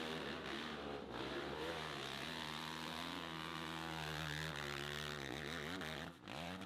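Motorcycle engine running hard, its revs rising and falling, with a sharp drop in level about six seconds in.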